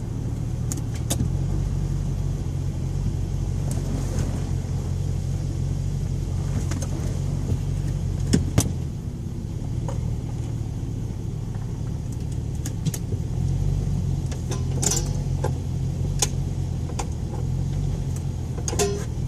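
Ford Thunderbird running steadily while being driven: a low, even engine drone, with a few sharp clicks and rattles scattered through it.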